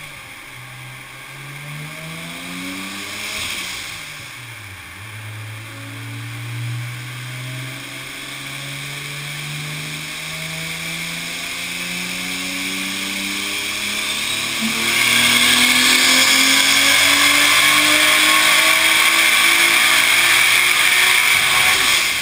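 Nissan RB26DETT straight-six with a single Precision PT6266 turbo accelerating under full throttle, its pitch rising steadily through a long pull after a brief dip early on. About 15 s in it gets much louder with a hissing rush as the boost comes in, and near the end the pitch drops as the throttle is released.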